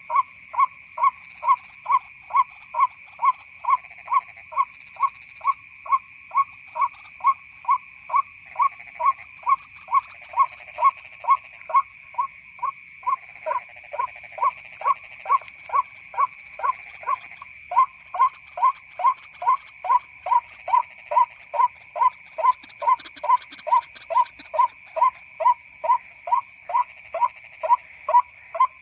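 White-breasted waterhen lure call played from an MP3 player: a monotonous run of short "kwak" notes, about two a second. The rhythm turns ragged with extra overlapping notes in the middle, over a steady high-pitched drone.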